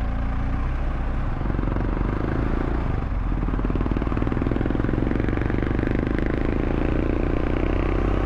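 Motorcycle engine running while riding, with road and wind noise; the engine note rises a little about three seconds in.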